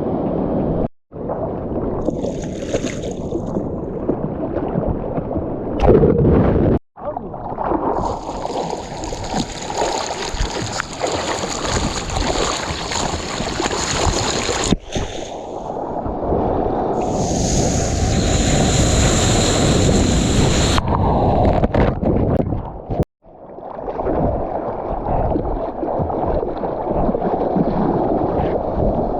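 Surf and rushing water mixed with wind buffeting a GoPro's microphone while surfing, a steady noise with a higher hiss in some stretches. It is broken four times by abrupt cuts between clips.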